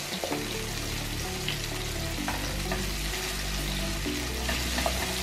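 Sliced bell peppers sizzling in butter in a hot nonstick frying pan, with a steady frying hiss. A wooden spatula stirring them gives short clicks and scrapes against the pan every second or so.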